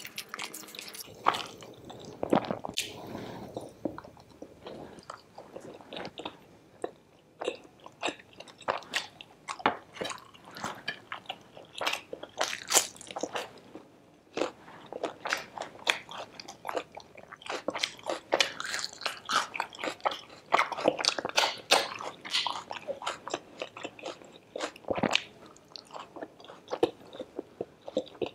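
A person biting and chewing crispy fried puri dipped in curry, with many short, sharp crunches.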